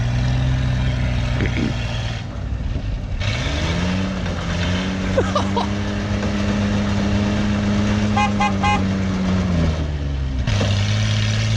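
Truck engine running, revved up about four seconds in and held at higher revs for several seconds, then dropping back near the end. A short rapid run of high toots sounds about eight seconds in.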